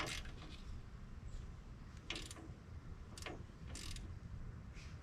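Faint, scattered metallic clicks and scrapes of small hardware being handled: the mounting bolts and nuts of a starter solenoid turned and seated by hand, five or so separate clicks spread across the few seconds.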